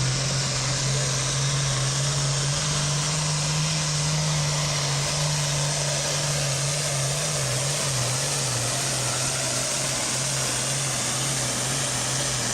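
Altered stock pulling tractor's diesel engine running hard at steady, high revs, with a strong, even drone and a slight waver in pitch partway through.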